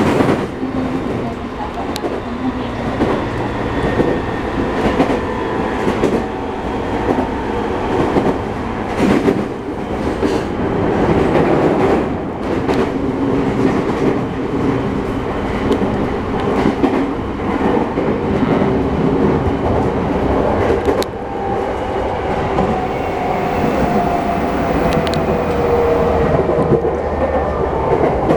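JR E217 series electric train running, heard from inside a car: a steady rumble with wheels clicking over rail joints. A motor whine falls in pitch over the last several seconds as the train slows for Yokohama station.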